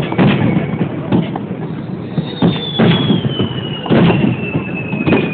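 Fireworks bursting in quick succession: a string of sharp booms every half second to a second over a low rumble. A high whistle slowly falls in pitch through the second half.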